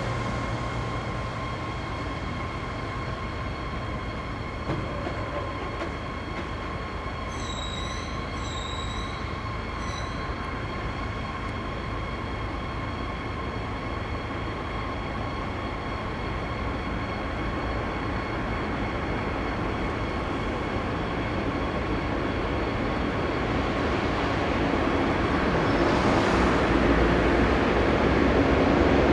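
Diesel-hauled freight train approaching, its engine rumble growing steadily louder over the last several seconds, with a steady high-pitched tone over it. Three short high beeps sound about eight to ten seconds in.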